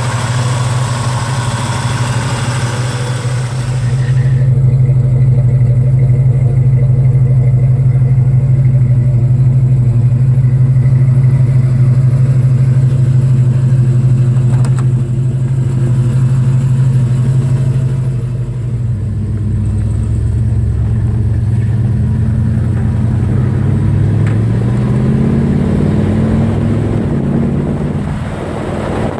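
1970 Ford Torino GT's 351 four-barrel (M-code Cleveland) V8 running: a steady deep idle, then from about 19 seconds in it accelerates, its pitch rising.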